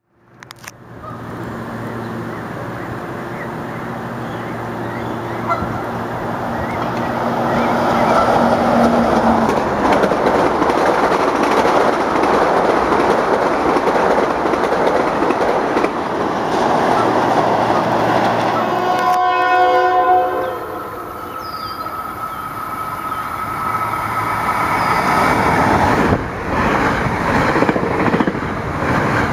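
Metro-North commuter trains passing at close range: steady rumble of wheels on rail from a silver electric multiple-unit train, then, about two-thirds of the way in, a short horn blast and the rolling noise of a push-pull train of Shoreliner coaches.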